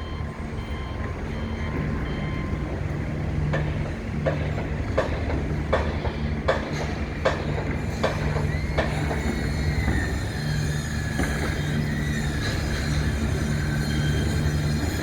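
Steady low city hum with a run of about seven sharp knocks, evenly spaced less than a second apart. These are followed by a long, high squeal that slowly falls in pitch.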